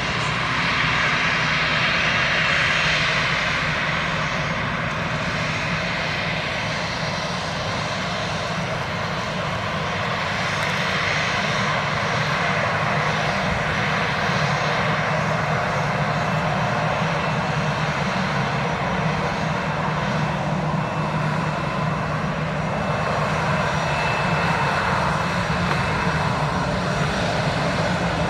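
Airbus A319 jet engines running steadily at taxi power, a constant rushing hum with faint steady whining tones.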